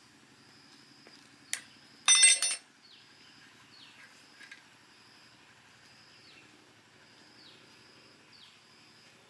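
A short, loud ringing clink with many overtones about two seconds in, just after a single sharp click. Faint high bird chirps, each falling in pitch, repeat about once a second underneath.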